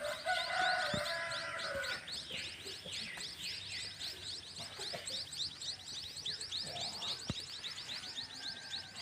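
Baby birds in a nest calling: a fast, continuous run of thin high chirps, several a second. A louder, lower-pitched sound with several tones overlaps them in the first two seconds.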